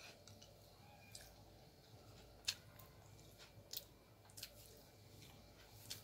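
Faint chewing of a bite of uthappa: a few short, wet mouth clicks, the loudest about two and a half seconds in, over near silence.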